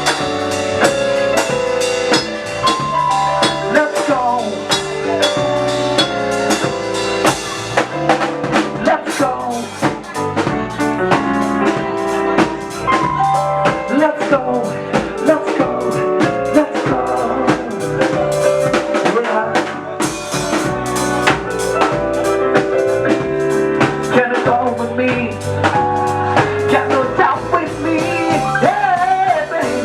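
Instrumental band music with no vocals: a drum kit keeps a steady beat with rimshots and bass drum under several pitched instruments playing held notes and melodic lines.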